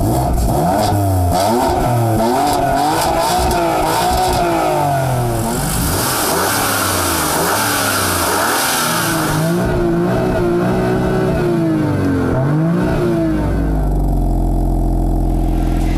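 BMW M3's 3-litre twin-turbo inline-six revved repeatedly through its exhaust, the pitch rising and falling several times. Near the end it settles back to a steady idle.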